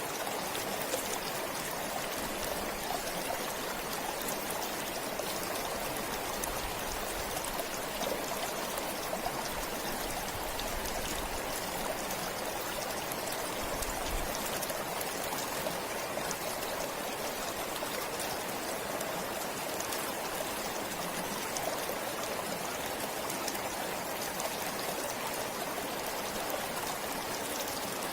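Water flowing in a forest stream, a steady rushing and trickling with no change.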